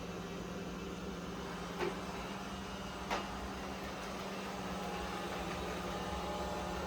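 Roborock Qrevo S robot vacuum running with a steady hum, with two short knocks about two and three seconds in.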